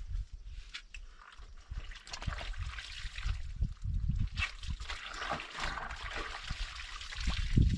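Clothes being washed by hand: water trickling and sloshing, with irregular small splashes and soft low thumps.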